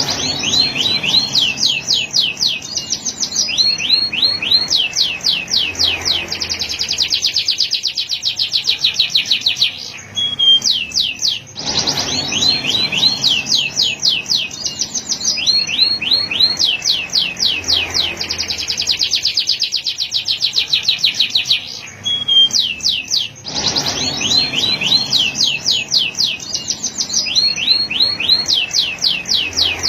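Male canary singing: fast trills of rapidly repeated high notes, one series after another. The same long song phrase comes round about every twelve seconds, with a short pause between.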